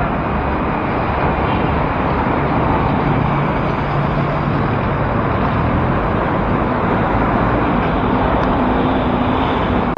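Steady city road traffic: engines of cars and other vehicles running close by, with a continuous rushing noise and a low engine hum that comes and goes.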